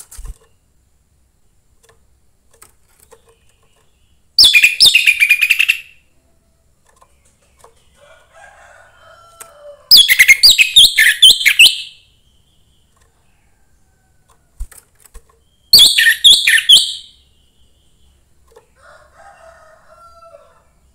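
Young wild-caught orange-headed thrush singing three loud phrases of rapid, high notes, each lasting about one and a half to two seconds, with fainter, lower notes in the pauses between them.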